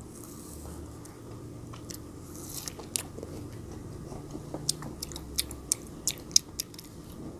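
A child chewing frozen grapes close to the microphone: sharp icy crunches and mouth sounds, coming more often in the second half.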